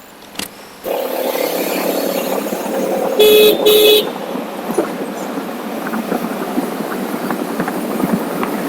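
Two short vehicle-horn toots in quick succession a little after three seconds in, over steady road and wind noise that starts suddenly about a second in.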